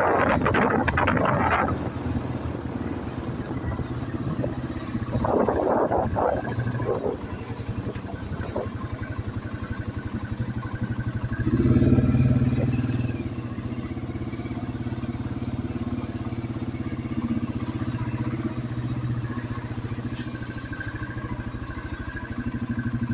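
Yamaha TW200's single-cylinder four-stroke engine running with a fast even pulse. It swells in level around the middle, with bursts of rushing noise in the first couple of seconds and again around six seconds.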